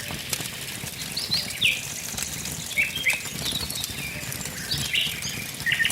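A wood fire crackling with frequent small pops, under birds chirping short, quick notes every second or so.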